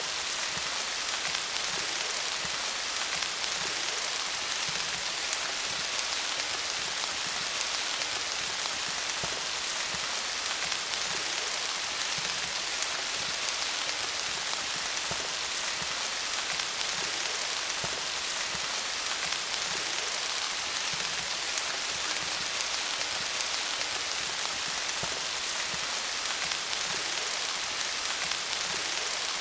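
Steady rain falling on leaves, a dense even patter of drops with no let-up.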